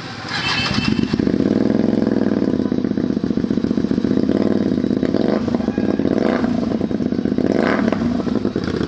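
Motorcycle engine with a loud exhaust catching about a second in, then running at a steady idle, with short throttle blips near the middle and near the end.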